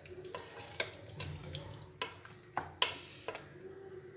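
A spoon stirring potato kurma in a cooking pan just after a cup of water has gone in, with several sharp knocks of the spoon against the pan.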